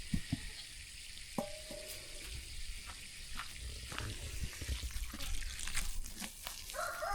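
Water running steadily from an outdoor water line, a continuous hiss. A rooster starts crowing near the end.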